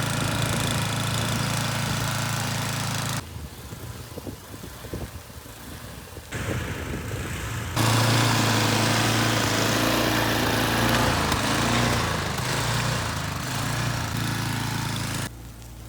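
Small gas snowblower engine running steadily. About three seconds in it gives way to a quieter stretch of scattered knocks, then it runs again until it stops abruptly near the end.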